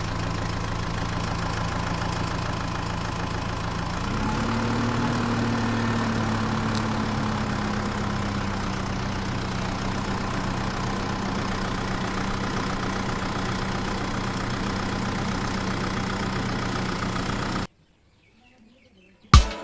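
Small DC motor of a homemade mini water pump running steadily with a low hum. Its pitch rises slightly about four seconds in, then holds, and it stops abruptly near the end.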